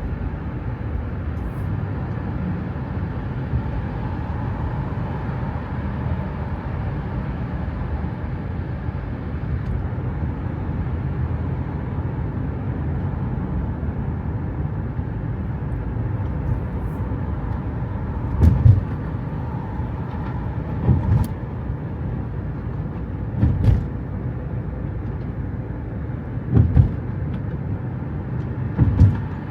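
Steady low rumble of a car driving, with a dull low thump every two to three seconds in the second half.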